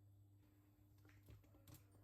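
Near silence: a faint steady low hum of room tone, with a few soft clicks or taps in the second half.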